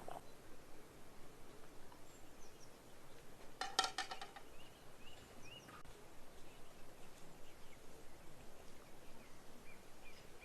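Small birds chirping over a steady outdoor background, with one short, louder bird call about four seconds in.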